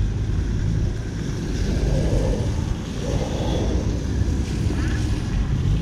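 City street traffic in the rain: vehicle engines running under a steady wash of wet road and rain noise.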